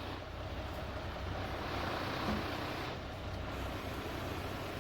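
Heavy rotator wrecker's diesel engine running steadily under load during a winch-and-boom recovery lift, with a broad rush of noise swelling about two seconds in.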